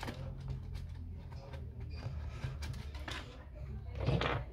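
Small clicks and scrapes of tools and plastic parts being handled while an Apple Time Capsule is taken apart, with a louder scraping rush about four seconds in, over a steady low hum.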